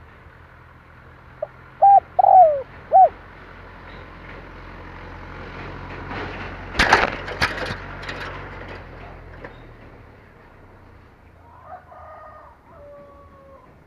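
Spotted dove cooing: a short phrase of four loud coo notes about two seconds in, with fainter cooing near the end. About seven seconds in there is a brief crackling, rustling noise.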